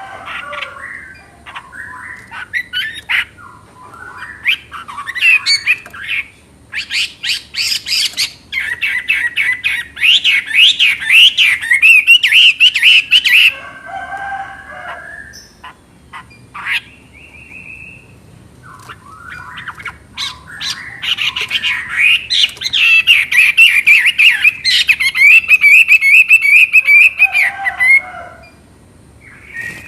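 Chinese hwamei singing: two long, loud runs of rapid, rippling warbled song, about seven and twenty seconds in, with shorter, softer phrases and calls between them.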